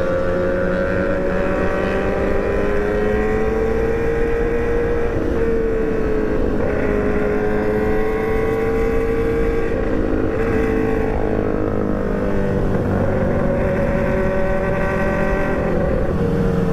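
Sport motorcycle engine running at a steady cruising speed while being ridden, its pitch drifting gently up and down with small throttle changes, over a low rumble of road and wind noise.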